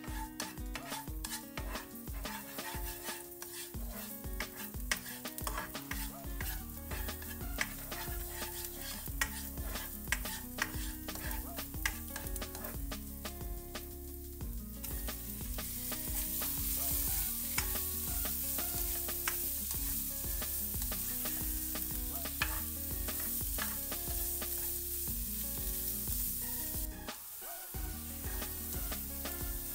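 Minced garlic sizzling in hot oil in a nonstick wok, with a spatula scraping and tapping against the pan as it is stirred. The sizzle grows louder about halfway through, and near the end shrimp go into the pan and are stirred.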